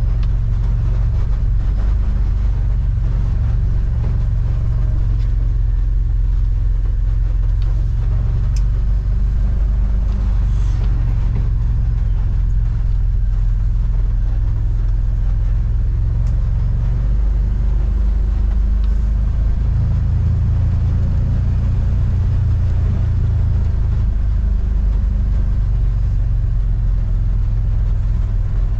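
Motor vehicle engine running steadily while driving, heard from on board as a constant low rumble.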